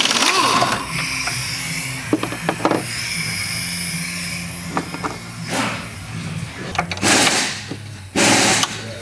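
Two short bursts of a pneumatic impact wrench near the end, each about half a second, loosening the 18 mm bolts that hold the top of a front strut, with scattered metal clanks of tools before them over a steady low hum.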